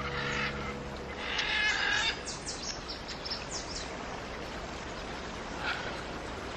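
Wild birds calling: a couple of harsh, rasping calls, then a quick run of short falling whistles, over a steady background hiss.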